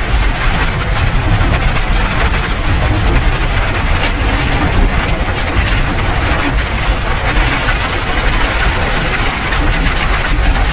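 Steady rain, a dense even hiss with a strong low rumble underneath.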